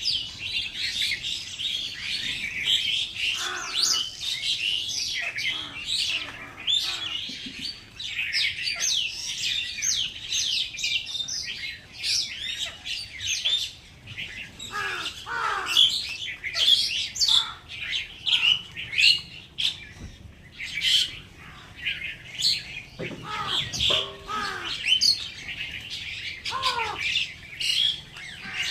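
A flock of small birds chirping together in a continuous, dense chatter, with a few lower squawks that fall in pitch.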